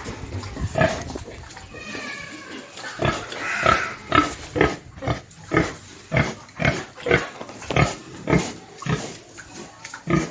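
Pig grunting in short, rhythmic grunts, about two a second, from about three seconds in, with a brief higher squeal about two seconds in.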